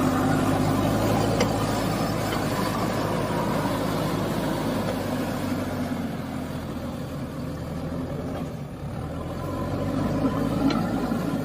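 A motor vehicle engine running steadily with a low hum, fading somewhat in the middle and growing louder again near the end.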